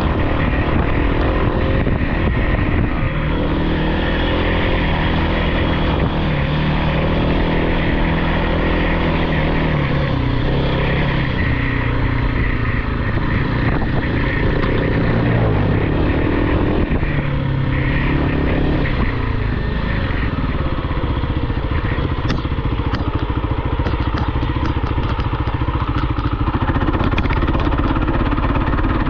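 Off-road vehicle engine running hard, its pitch rising and falling repeatedly as the throttle is opened and eased. Light clicks come near the end.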